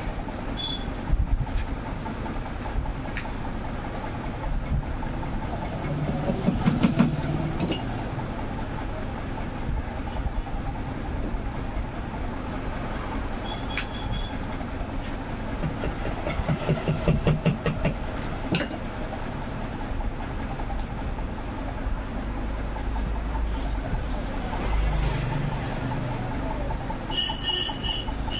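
Steady rumble of engines and traffic with scattered sharp clicks and taps, swelling louder about six to eight seconds in and again about sixteen to eighteen seconds in.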